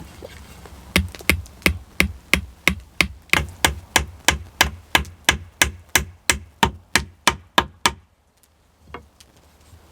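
A hand tool striking wood in a steady run of about twenty sharp blows, roughly three a second. The blows stop suddenly, and one lone knock follows about a second later.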